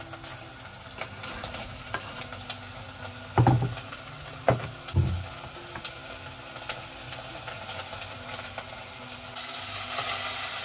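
Beef pieces sizzling and crackling as they fry in a pan. There are three dull knocks a little before halfway, and the sizzle turns louder and hissier near the end.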